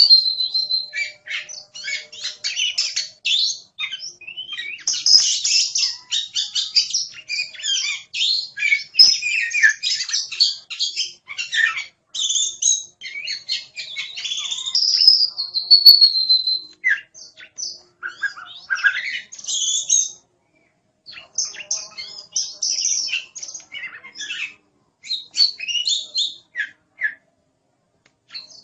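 Oriental magpie-robin (kacer) singing energetically: a long, varied song of rapid chattering notes mixed with clear whistles, with a couple of short pauses in the second half.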